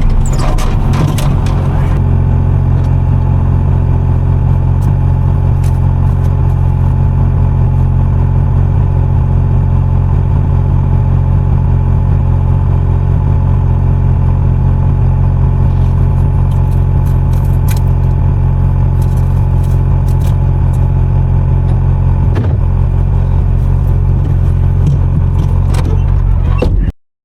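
Timberjack 608 logging machine's diesel engine running steadily under load, heard from inside the cab, with scattered clicks and clunks over the drone. The sound cuts off suddenly near the end.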